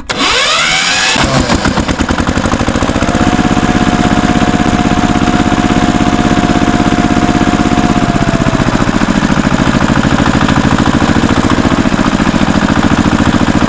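Small engine starting up and revving over the first second, then running steadily with a fast, even chug.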